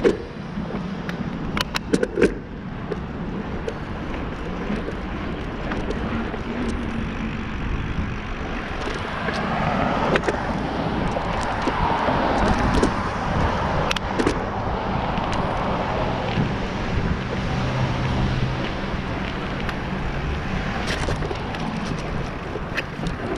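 Steady road noise while riding a bicycle, with a car swelling and fading past in the middle and a few sharp clicks near the start and near the end.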